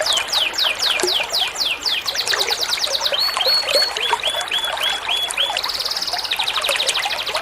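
Recorded songbird song for bird-song training: quick runs of sharp down-slurred whistles, then a series of short repeated chirps, then a fast buzzy trill near the end, over a steady hiss of running water.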